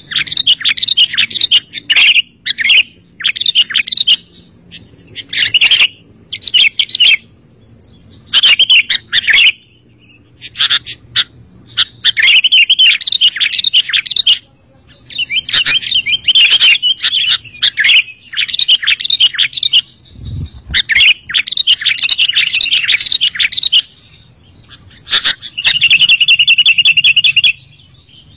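Sooty-headed bulbul (kutilang) singing: loud bursts of quick, bubbly chattering phrases broken by short pauses, with a longer buzzy trill near the end. A brief low thump comes about two-thirds of the way through.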